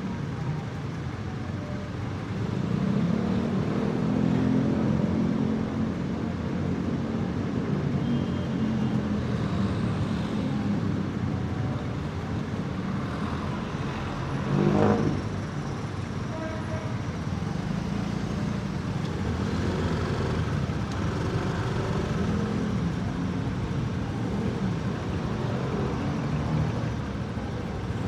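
Motorcycle engine running through city traffic, its pitch rising and falling as the bike speeds up and slows. There is a brief, louder sound about halfway through.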